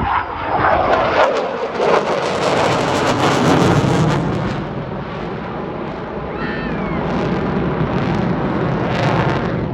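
F-22 Raptor jet fighter's twin turbofan engines in a fly-past: a loud roar builds to a peak a couple of seconds in, then loses its hiss and fades to a lower rumble as the jet moves away.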